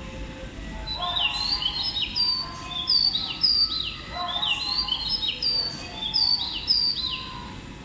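Birds chirping: a run of quick, high, falling whistles in two bouts over steady low background noise.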